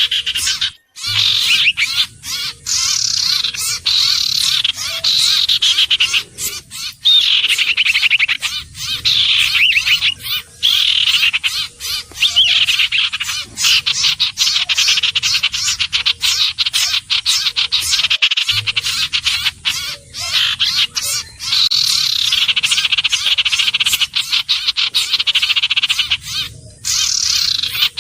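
Common iora calling continuously: rapid trills that fall in pitch over a couple of seconds, repeated one after another, with brief drop-outs about a second in, about two-thirds of the way through and near the end.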